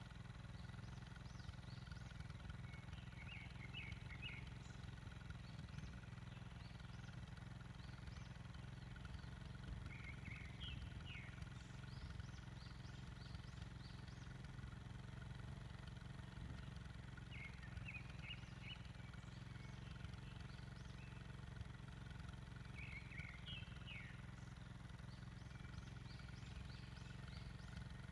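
A bird repeating short runs of quick high chirps about every six or seven seconds, faint, over a steady low rumble.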